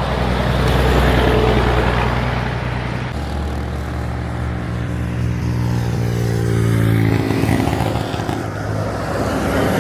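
Heavy truck's diesel engine running loudly, its pitch shifting about three seconds in and the engine tone fading back near the end.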